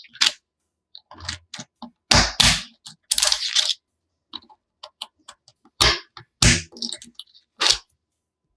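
Plastic magnetic building pieces clicking and clattering together, in a string of separate sharp clicks and short rattles with silent gaps between them.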